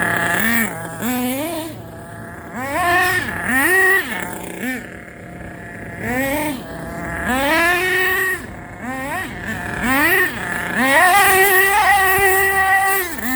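Small .28 nitro engine in a Thunder Tiger S2 being blipped: its rasping note repeatedly rises and drops back, about eight times, then holds high for a couple of seconds near the end before falling again.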